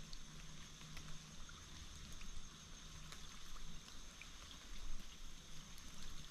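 Faint steady rush of creek water, with a thin high steady hum over it and scattered light ticks of water dripping from the trees.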